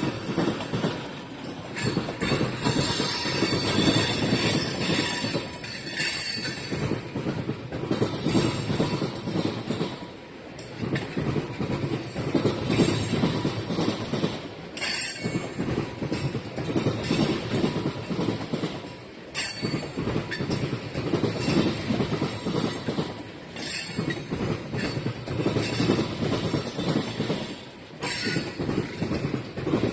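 Loaded tank cars of an oil train rolling past, the wheels clattering rapidly over the rails. A high squeal from the wheels comes and goes every few seconds.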